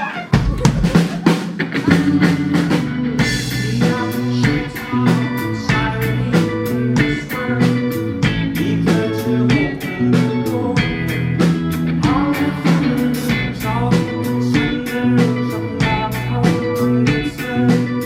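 Live rock band playing: a drum kit keeps a steady beat under repeating bass and electric guitar lines.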